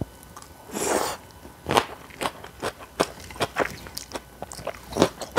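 Close-miked eating sounds: crisp crunching bites and chewing, many sharp irregular crunches, with a short louder rush of noise about a second in.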